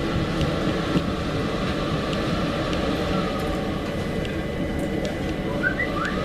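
Electric multiple-unit train running, a steady rumble and rail noise with a faint steady high whine.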